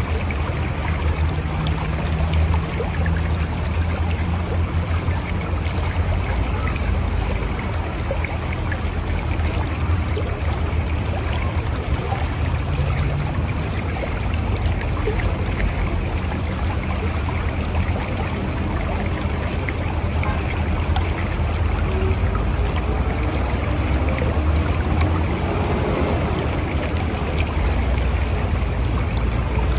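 Mountain river flowing: steady rushing and gurgling water with a deep low rumble.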